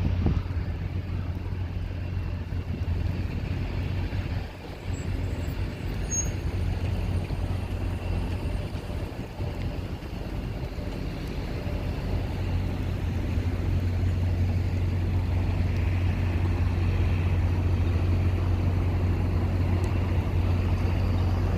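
Embraer E170's twin turbofan engines running at taxi power after landing: a steady low rumble with a faint high whine.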